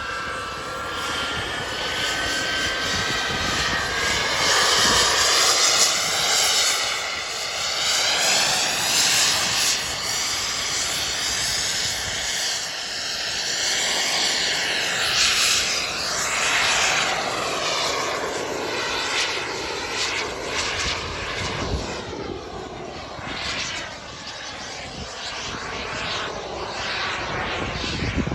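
Small gas-turbine engine of a radio-controlled model jet in flight, with a whooshing jet sound that sweeps up and down as the plane passes back and forth. It is loudest on passes about six and fifteen seconds in.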